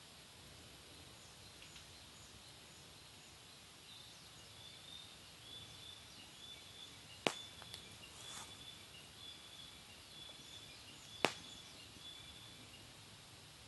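Wood fire burning in a fire pit, with two sharp pops from the burning wood about halfway through and again near the end. A faint series of short, high, evenly spaced chirps runs through the middle.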